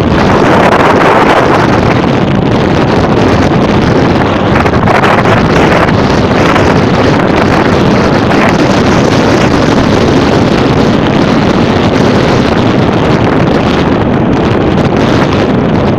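Storm wind buffeting the microphone: a loud, unbroken rushing roar.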